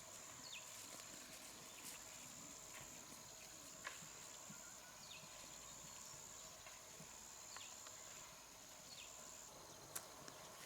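Faint quiet ambience: a steady high-pitched whine, with scattered light clicks and a few short falling whistles.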